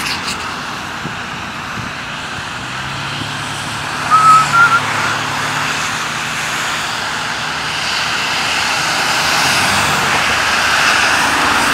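Steady hiss of rain and traffic on a wet road, with a faint engine hum in the first half and the hiss swelling over the last few seconds as a vehicle goes by. A brief high chirp sounds about four seconds in.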